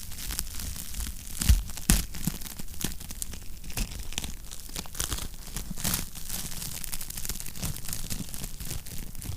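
Wood fire crackling in a fireplace: irregular snaps and pops, with two louder pops about one and a half and two seconds in, over a low steady rumble.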